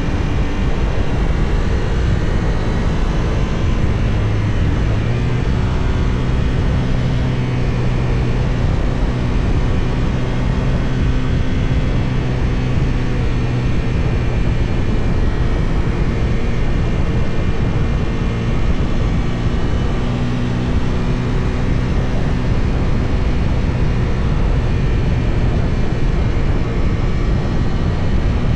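Benelli Tornado 550's 554 cc parallel-twin engine (270° crank) running steadily while ridden, its pitch shifting a little with speed, under constant wind rush.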